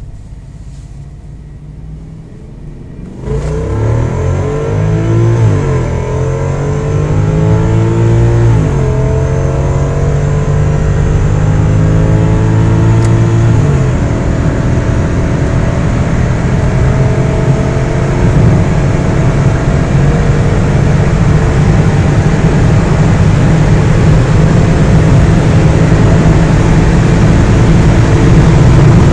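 Audi S8 engine idling low, then accelerating hard from about three seconds in. The engine note climbs and drops back with each of several upshifts over the next ten seconds, then settles into a steadier, louder drone at speed.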